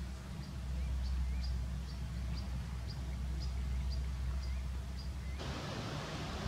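A bird chirping in a steady series, about two short high notes a second with fainter lower notes between, over a low steady rumble. About five seconds in the sound cuts to a steady hiss of wind on the microphone.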